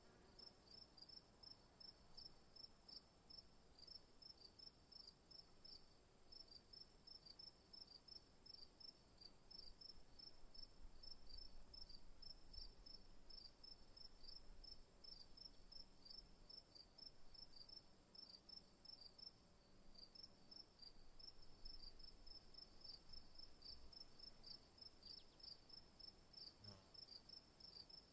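Faint insect chirping: a steady high buzz with short high chirps repeating about three times a second.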